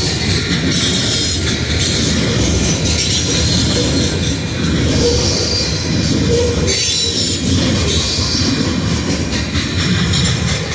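Coal train's hopper cars rolling past, a steady heavy rumble of steel wheels on the rails. High-pitched wheel squeal comes and goes every couple of seconds.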